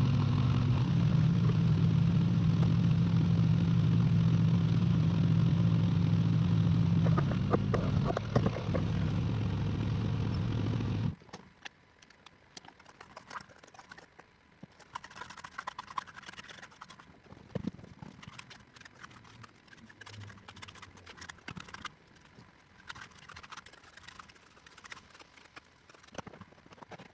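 Excavator's diesel engine idling steadily, with a few knocks about eight seconds in. About eleven seconds in the engine sound cuts off suddenly, leaving faint scattered clicks and rustles.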